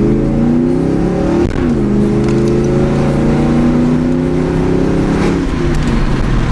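Customized 1999 Ford Mustang GT's 4.6-litre V8 accelerating. The revs climb, drop at a gear change about a second and a half in, climb steadily again, and ease off near the end.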